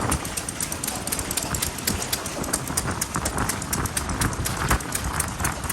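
Vintage stationary engines running, a dense, irregular clatter of knocks and exhaust beats.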